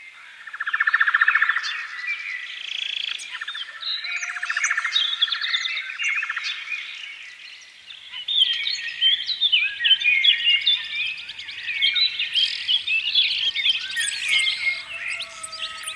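Birds chirping and trilling, many quick calls overlapping. A louder rapid trill comes about a second in, and the calls grow busiest in the second half.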